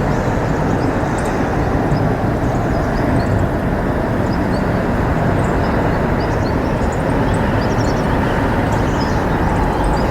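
Steady low outdoor background noise with no distinct events, overlaid by faint, short, high chirps of small birds scattered throughout.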